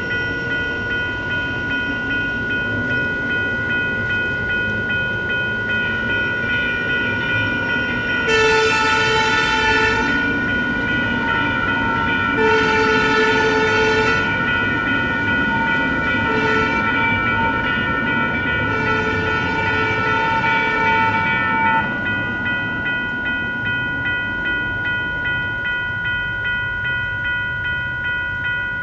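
US&S E-Bell electronic railroad crossing bell ringing steadily. A light rail train sounds its horn over it in the grade-crossing pattern: two long blasts, a short one, then a long one.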